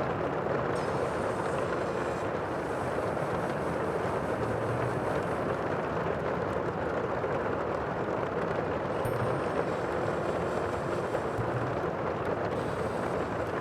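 Steady, even rushing noise of the sea, with no distinct wave breaks standing out.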